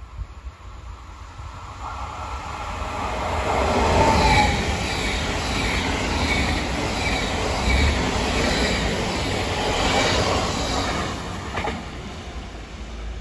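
Three coupled DSB IC3 (MF) diesel trainsets running through the station: the rush of the train and a rhythmic wheel clatter build up over the first few seconds, hold steady, then fade away near the end.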